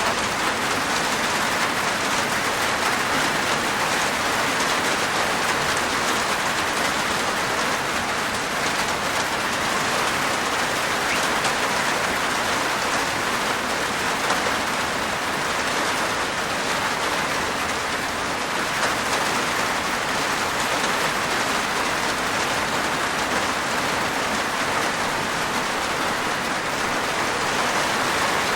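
Steady rain falling on a rooftop, an even hiss of many drops.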